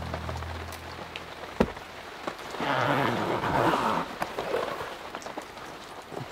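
Steady rain falling on wet ground, with many small drops ticking. A single sharp knock comes at about a second and a half, and a brief louder rustling noise follows a little before the middle.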